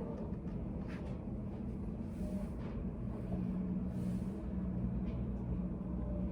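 Steady low room hum with a steady drone near its low end, with a few faint ticks or taps scattered through it.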